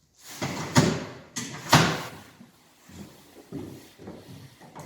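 Boat camouflage cover being handled and folded: rustling and knocking, with two loud swishes about one and two seconds in, then quieter rustling.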